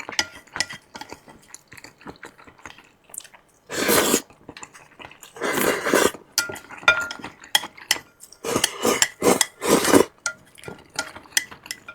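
Eating utensils clicking and clinking against bowls and dishes, with several longer noisy stretches between the clicks.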